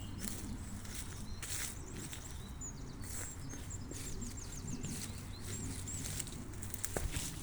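Forest birds singing: thin high chirps and a quick run of short falling whistled notes, over a low steady rumble, with scattered crackles.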